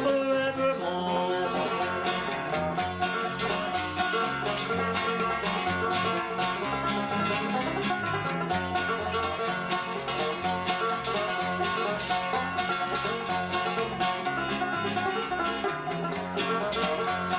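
Gospel group playing an instrumental break between verses: quick plucked string notes over a steady stepping bass line. The last sung word ends about a second in.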